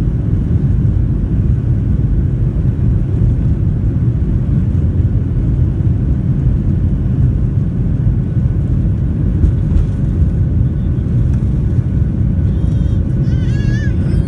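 Steady, loud cabin noise inside a Boeing 737-800: the CFM56-7B jet engines and airframe making an even low rumble, with faint steady tones above it. A brief voice with wavering pitch is heard in the last two seconds.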